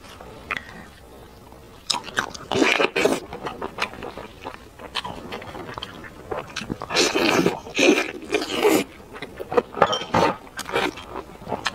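Close-miked eating sounds: biting, tearing and chewing meat from a sauce-glazed, bone-in lamb leg, with wet smacking in irregular bursts. It starts about two seconds in, after a quiet start.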